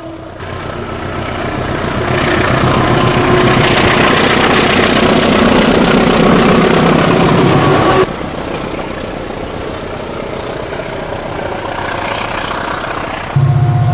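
Diesel train running close by, its engine and rolling noise swelling over several seconds with a thin rising whine, then cutting abruptly to a quieter, steadier engine sound.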